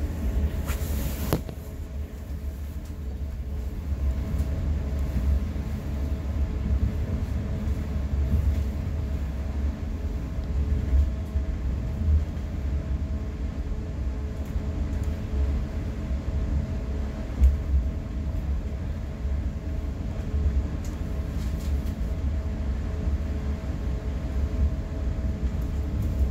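Steady low rumble of a double-deck commuter coach rolling along the track at cruising speed, heard from the upper level, with a faint steady hum above it. A short burst of noise comes about a second in.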